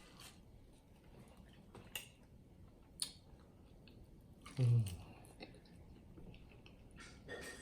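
Close-miked chewing of sauced chicken wings, with scattered sharp, wet mouth clicks. A short, low voiced hum from the eater about halfway through is the loudest sound, and a fainter one comes near the end.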